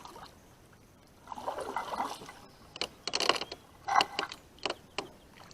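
A kayak being paddled: a soft swish of a paddle stroke through water, then a run of sharp knocks and clicks of the paddle and gear against the boat.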